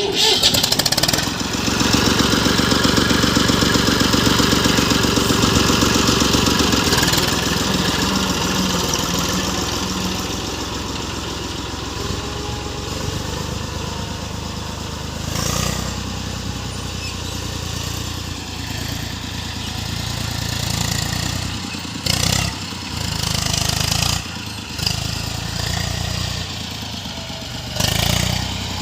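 A farm tractor's diesel engine starts up suddenly and runs loud, easing to a steadier, slightly lower level after about seven seconds, with a few brief louder surges in the later part.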